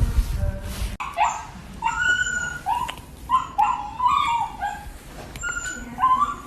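A young animal giving a string of about eight short, high-pitched cries, some sliding up or down in pitch, starting about a second in.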